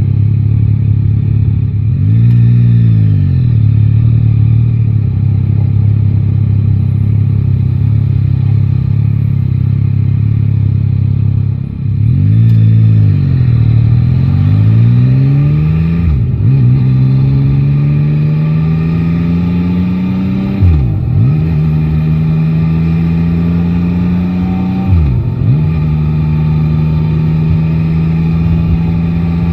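Yamaha Tracer 9 GT's three-cylinder engine running on the move, with a brief throttle blip about two seconds in. From about twelve seconds in it accelerates, pitch rising, through three upshifts, then holds a steady cruise.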